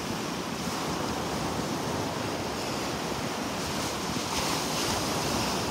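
Gulf of Mexico surf washing onto the beach in a steady wash, with wind on the microphone.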